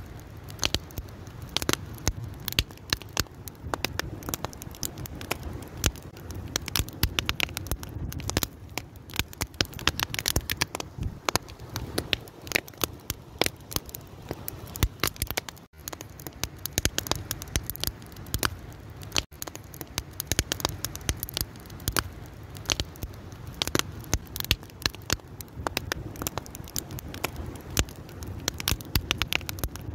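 Open fire crackling steadily, with a dense, irregular stream of sharp pops and snaps over a low, steady rush.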